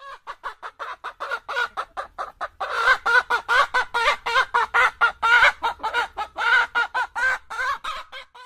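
Chicken clucking rapidly, several clucks a second, growing louder about three seconds in and cutting off abruptly at the end.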